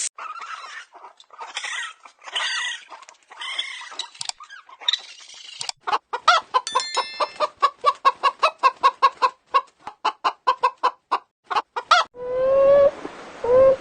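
Chickens squawking, then breaking into a rapid run of short clucks, about five a second. Near the end a different steady-pitched whining call starts.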